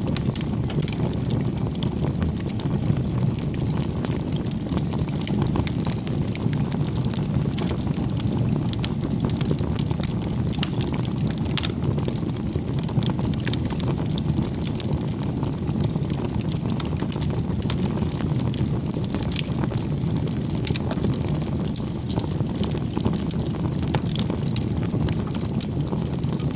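Campfire crackling: a steady low rumble of burning wood with frequent small pops and snaps.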